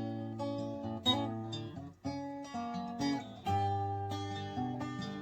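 Acoustic guitar strumming chords, each chord struck and left ringing before the next, in an instrumental passage between sung lines.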